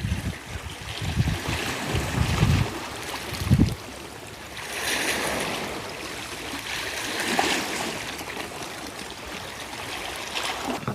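Strong wind buffeting the microphone in low rumbling gusts during the first few seconds, then a steady rushing of wind and sea that swells and eases.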